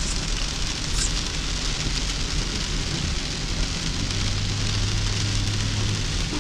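Steady rain falling on a hard surface, a dense even hiss. A low steady hum joins past the middle for a couple of seconds.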